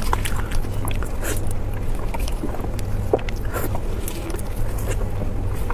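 Chewing and wet mouth clicks of someone eating, irregular short crackles over a steady low hum.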